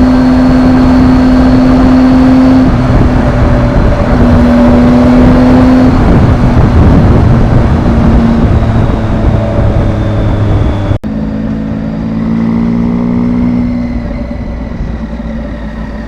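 Triumph motorcycle engine running under way, its note steady then shifting with the throttle, over road and wind noise. About eleven seconds in the sound drops out for an instant and comes back duller.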